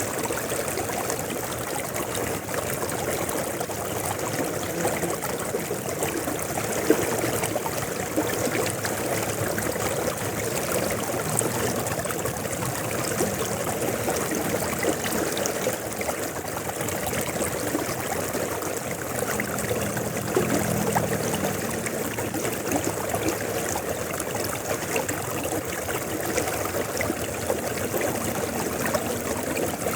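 River water flowing steadily, with an even rushing and trickling.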